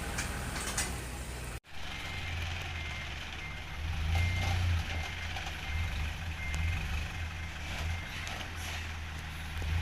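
Heavy diesel engine running low and steady while a reversing alarm sounds short, repeating beeps, as of a dump truck or loader backing up.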